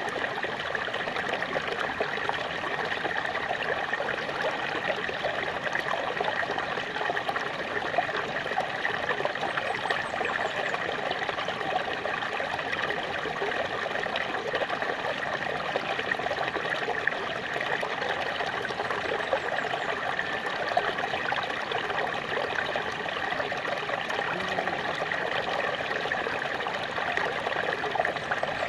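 Water of a small waterfall splashing and trickling steadily, an even rush without pauses.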